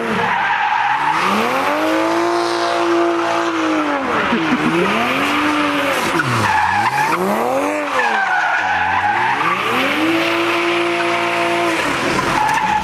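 Car engine revving hard in repeated swells, held high for a second or two, then falling away and climbing again, about four times, while the tires squeal steadily as the car drifts.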